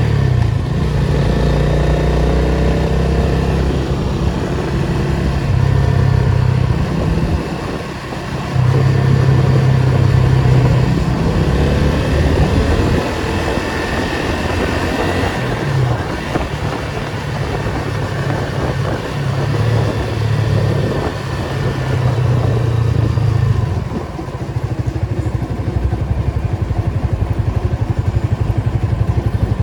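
Datsun 280Z's straight-six engine driving in slow traffic at low revs, its pitch rising and falling again and again as the throttle opens and closes.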